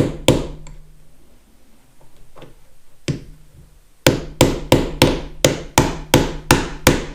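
Hammer blows: a few separate strikes, then a quick run of about ten blows at roughly three a second near the end.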